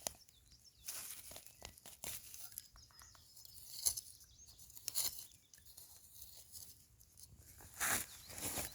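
Hands digging and scraping through soil and debris at a turtle nest, searching for the eggs. Faint, intermittent rustling, with a few louder scrapes about four, five and eight seconds in.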